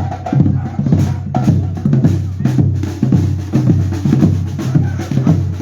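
Batucada percussion ensemble playing a steady marching rhythm: deep bass drums beating evenly under snare drums.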